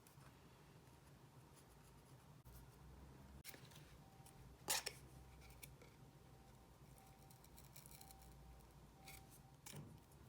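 Faint small hand-work sounds over a low room hum: a few light clicks and snips, the sharpest about halfway through, then scattered light ticks near the end.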